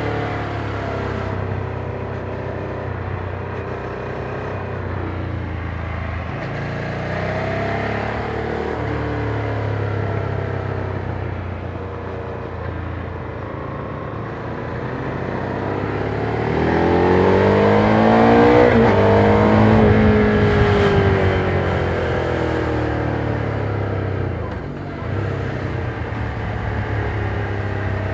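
Ducati Monster 797's air-cooled V-twin on its stock exhaust, heard while riding. The engine runs at moderate revs at first, then is opened up about two-thirds of the way through: the note climbs sharply to its loudest, then falls away as the throttle closes.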